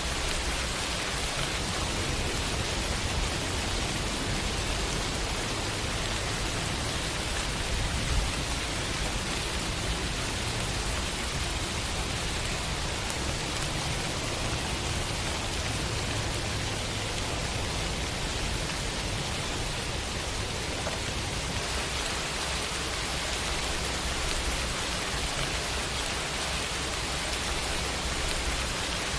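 Steady rain falling and pattering on surfaces, an even hiss with a low rumble underneath.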